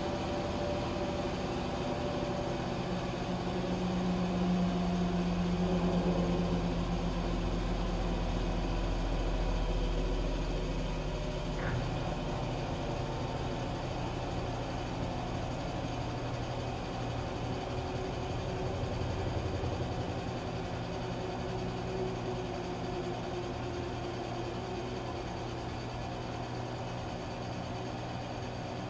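Washing machine running with a steady motor hum; a deeper low drone swells for several seconds early on and then eases, and there is one brief click about twelve seconds in.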